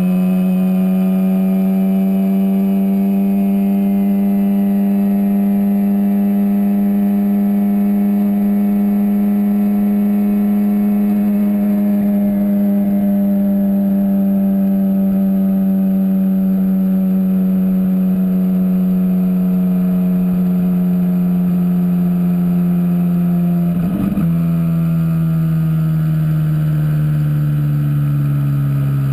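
Twin-turbocharged Ferrari 458 V8 running at a steady, moderate engine speed under light throttle, its note rising slightly and then easing. Near the end there is a brief break in the sound, after which the engine note drops lower.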